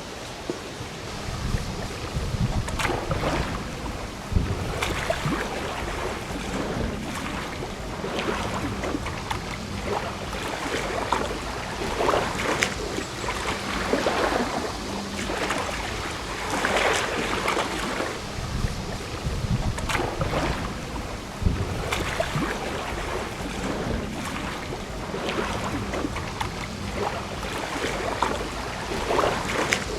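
Small waves lapping and splashing on the water in irregular surges, with wind buffeting the microphone.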